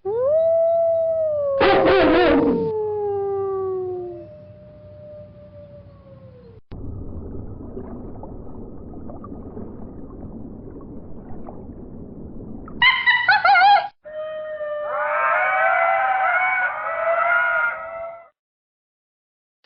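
A run of different animal calls: a long call falling in pitch, then a stretch of quieter noisy sound, then short harsh calls and a wavering call near the end.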